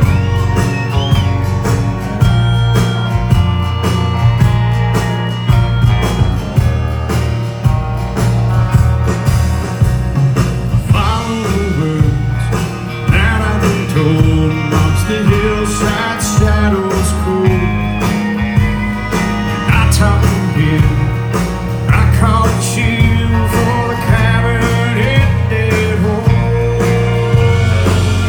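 Live country band playing an instrumental break: bass and drums under a lead instrument soloing with long notes that bend and glide.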